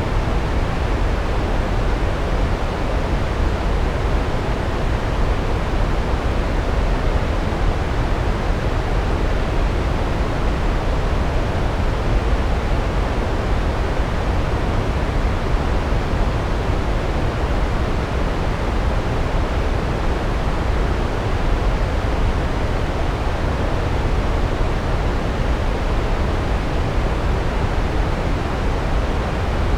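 A large waterfall: a steady, unbroken rush of falling water, deep and even, with no changes.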